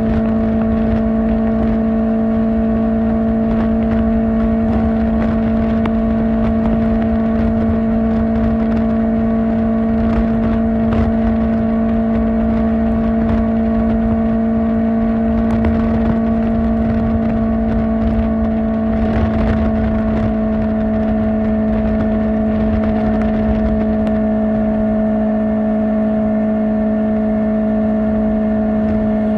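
Kawasaki Ninja ZX-4R's inline-four engine through an Akrapovic exhaust, cruising at a steady high engine speed as a steady drone that drops a little in pitch over the last third. Wind buffets the microphone underneath.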